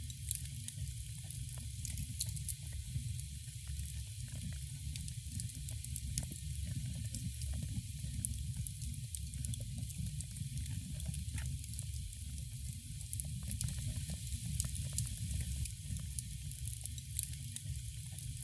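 Wood fire in a fireplace crackling, with many small sharp pops scattered throughout over a steady low rumble.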